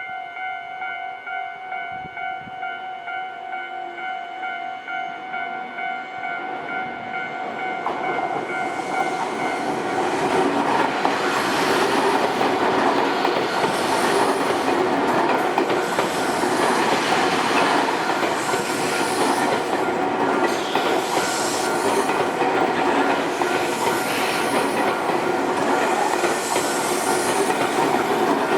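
Railway level-crossing warning bell ringing in rapid, evenly repeated strokes. About eight seconds in, a Nankai Koya Line train arrives and passes over the crossing, its wheels clattering over the rail joints, loud and steady, rising over the bell for the rest.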